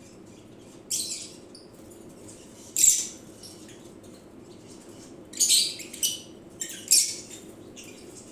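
Lovebird giving short, shrill chirping calls, about six of them at irregular intervals: the male calling to his weak, ailing mate.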